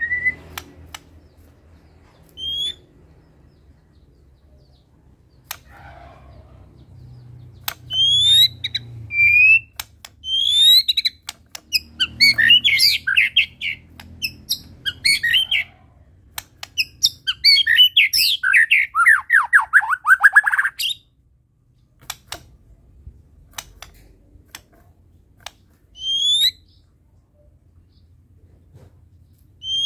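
White-rumped shama (murai batu) singing in bouts: short rising whistled notes, then long fast varied phrases that end in a rapid falling run of notes about 21 s in, with sharp clicks in between.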